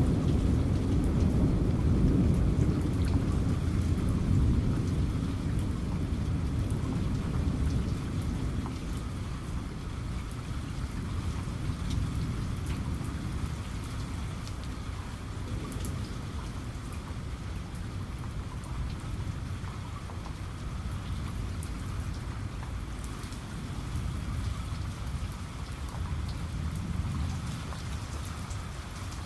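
Steady rain falling, with scattered drop patter. A low thunder rumble fades away over the first several seconds.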